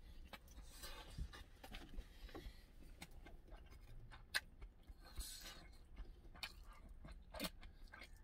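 Quiet mouth sounds of a person chewing, with scattered light clicks of a fork tapping and scraping in an open tuna can.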